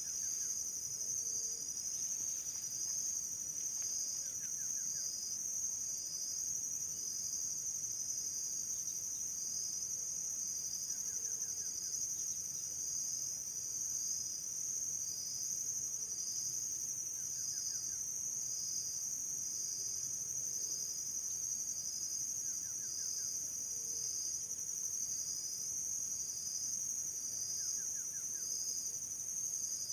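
Insects stridulating: a steady high-pitched buzz with a second insect chirping in regular pulses about once a second, and a faint short trill repeating every few seconds.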